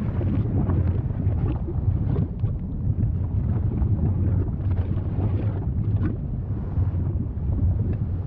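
Volcano rumbling steadily and deeply, with frequent small crackles and pops over the rumble.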